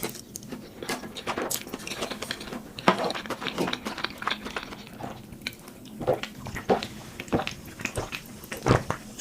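Close-miked chewing of instant ramen noodles: irregular wet mouth clicks and smacks, with a few louder ones about three seconds in and near the end.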